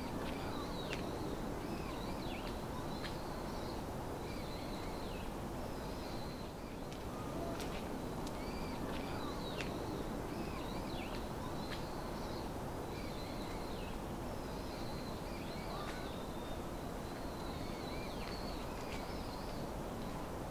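Small birds calling again and again, short high chirps and falling whistles, over a steady low background rumble.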